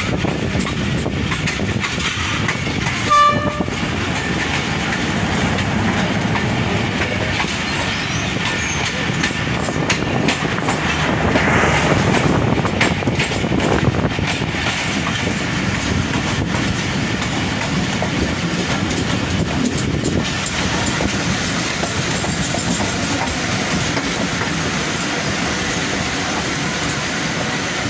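Passenger train rolling along the rails, heard from an open coach doorway while another train passes on the next track. About three seconds in, a diesel locomotive's horn gives one short blast.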